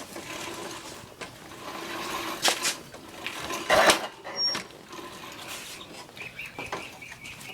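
Recoil pull-start of a Predator 99cc minibike engine yanked twice, about a second apart, with the engine not catching.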